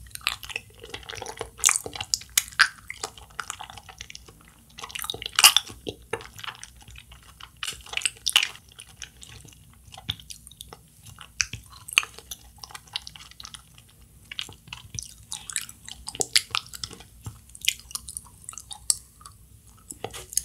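Close-miked chewing of a soft Japanese kyoho grape jelly, with irregular clusters of mouth smacks and clicks.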